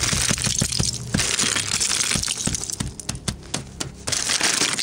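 Thick sheet ice cracking and crunching as it is broken off a car, a dense run of sharp cracks and crackles.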